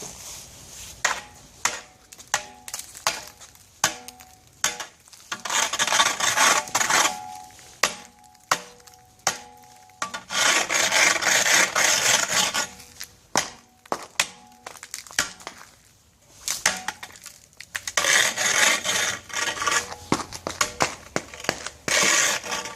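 Scraping and chipping at a sheet of ice: sharp knocks and bursts of rough scraping, three long bouts among scattered hits.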